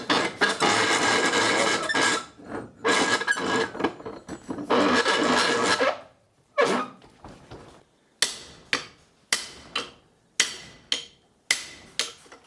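Three sustained, rattling bursts of metalwork, then a run of sharp hammer blows on steel, roughly two a second, each ringing briefly. The blows are striking a rusted, seized steering part on an old David Brown tractor to knock it loose.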